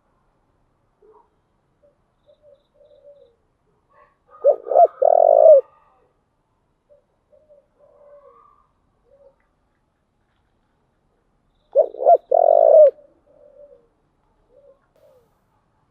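Spotted dove cooing: two loud phrases about seven seconds apart, each two or three short notes running into a longer one, with soft faint coos between them.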